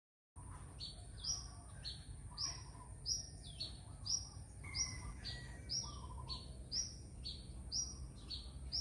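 A bird chirping over and over, about two short call notes a second, over a steady low rumble.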